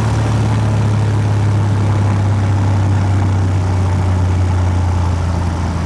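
Cessna 172's piston engine and propeller running at full throttle in a static run-up, a loud steady drone at about 2300 RPM, within the 2250 to 2340 RPM expected for this aircraft. The pitch eases down slightly near the end.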